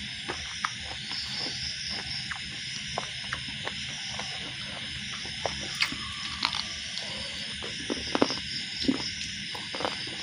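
Close-up chewing and mouth sounds of someone eating roti with chicken curry: small wet clicks and smacks scattered through, a few louder ones about eight seconds in. Behind them runs a steady chirring of insects.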